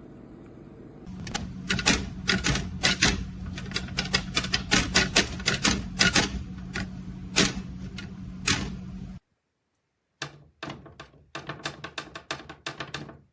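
Rapid, irregular sharp clicks and taps over a steady low hum. They stop abruptly about nine seconds in, then resume after a second of silence.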